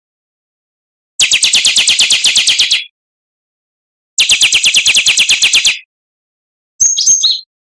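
Oriental magpie-robin (kacer) singing: two fast runs of high repeated notes, about ten a second and each lasting about a second and a half, then a short, different chirping call near the end, all set apart by dead-silent gaps.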